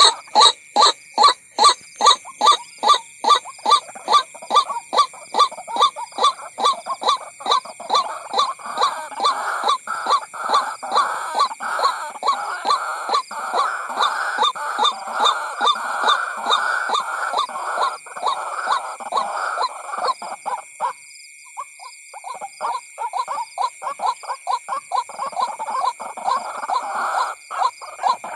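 White-breasted waterhen calling: a long run of loud, rapidly repeated calls, about two to three a second, with a brief break about twenty seconds in before the calling resumes.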